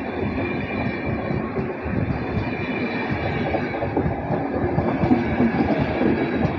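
Passenger coaches of a departing express train rolling past close by: a steady rumble of wheels on the rails, with irregular knocks as the bogies run over the track.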